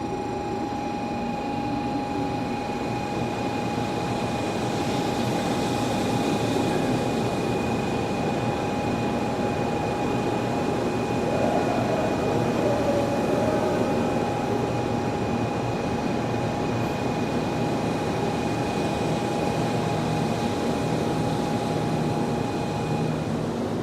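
100 series Shinkansen train running, a steady rumble with a high steady whine that stops near the end.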